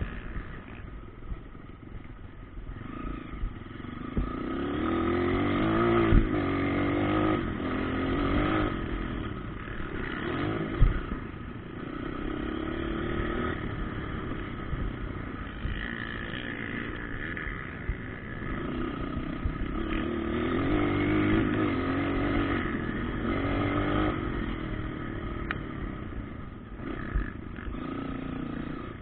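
Motocross bike engines revving as they ride the track, the pitch rising and falling again and again through the gears, with a few sharp knocks.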